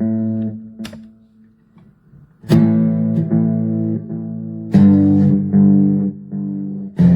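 Electric guitar played through a delay and reverb pedal: strummed chords struck every two seconds or so, each left to ring and fade, with a short near-pause about two seconds in.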